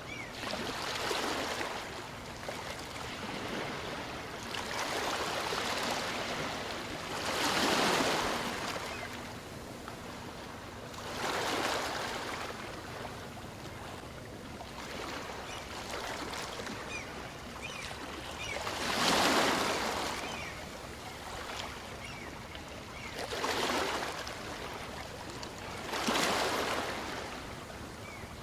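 Small waves on a calm sea breaking and washing up a beach, a surge of surf every few seconds over a steady background wash.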